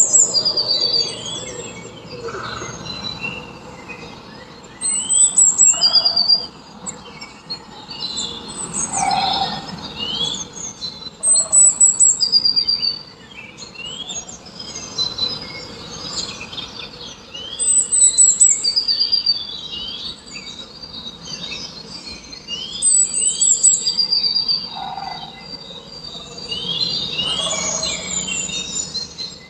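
Birds chirping and singing, with short high falling trills and quick rising calls, louder phrases coming back every few seconds.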